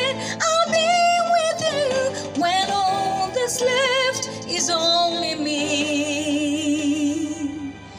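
A woman singing long, wavering held notes and runs over a backing track, fading down near the end.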